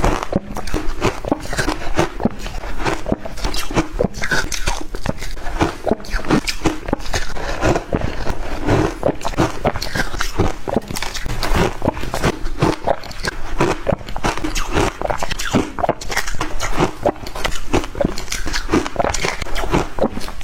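Shaved ice dipped in water being bitten and chewed: a dense, unbroken run of crunches and crackles, several a second.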